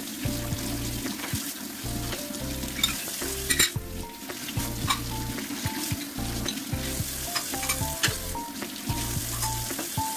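Food sizzling as it fries in a pan, with scattered sharp taps and scrapes of a utensil stirring it.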